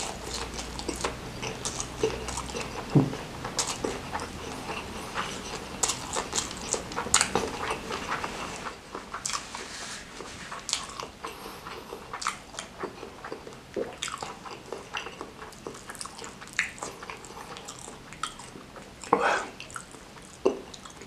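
Close-miked chewing of a mouthful of rice and fried chicken: wet mouth smacking and irregular sharp clicks, with no pauses.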